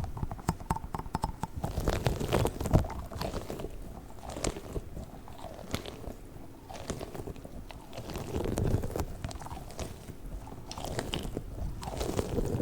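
Squishy rubber balls squeezed and handled by hand, giving irregular crunchy crackles, clicks and soft squishing thumps.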